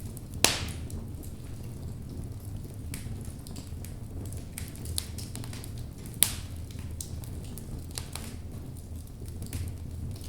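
Wood fire burning in a fireplace: a steady low rumble of flames with scattered crackles and two loud sharp pops from the logs, about half a second in and about six seconds in.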